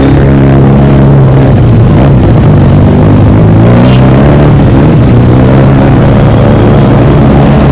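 Motorcycle engine with a loud modified exhaust running under way, its pitch dipping and climbing back about two seconds in.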